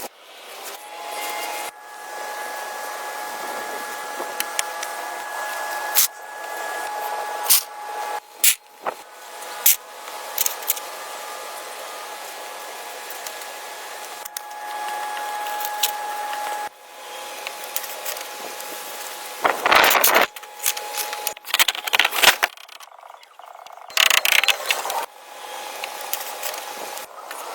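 Hand-tool work in a string of short clips: sharp knocks and scrapes, with a louder rough stretch about two-thirds of the way through, over a steady hiss and a thin, steady high tone.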